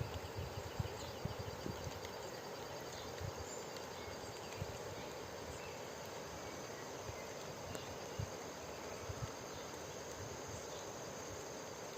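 Forest ambience of insects calling steadily, with a few soft low thumps in the first couple of seconds.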